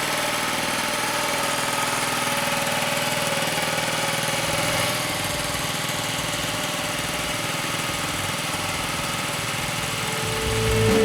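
1975 Honda Z50 minibike's 49cc four-stroke single-cylinder overhead-cam engine idling steadily, settling slightly quieter about halfway through. Music fades in near the end.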